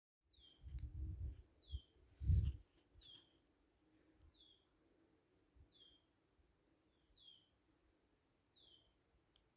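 A small songbird repeating a two-note call, a short high note and a down-slurred note, about every second and a half. A few dull low rumbles come in the first couple of seconds, the loudest about two seconds in.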